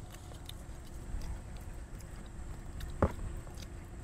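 Quiet eating sounds: soft chewing and small mouth clicks over a low steady rumble, with one sharp click about three seconds in.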